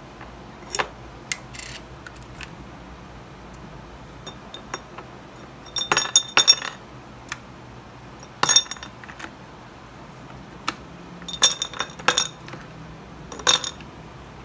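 Dishes and glassware clinking: short sharp knocks with a brief ringing tone, a few single ones and two quick clusters of several around the middle and near the end.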